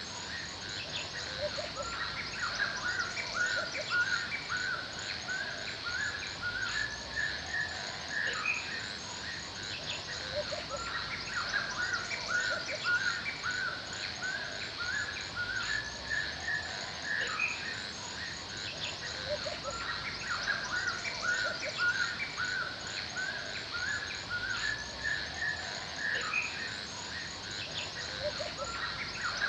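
Forest birds chirping and calling continuously, many short overlapping calls over a steady high hiss.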